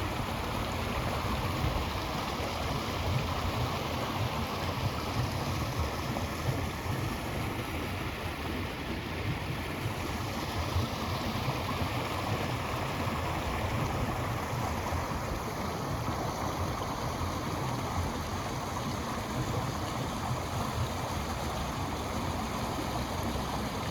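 A creek flowing and rushing steadily over its bed, a constant wash of water noise, with some low wind rumble on the microphone.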